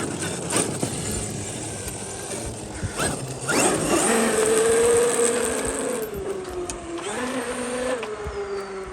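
Traxxas XRT RC monster truck's electric motor whining under full throttle: the pitch rises sharply about three and a half seconds in, holds steady, then slowly falls as the truck coasts.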